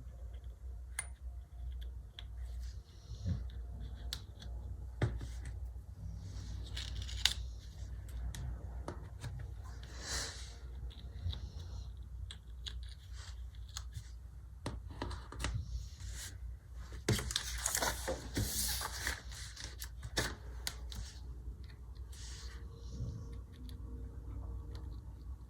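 Hands handling paper and stickers on a desk: scattered light taps and clicks, with short bursts of paper rustling about ten seconds in and again around seventeen to nineteen seconds, over a steady low hum.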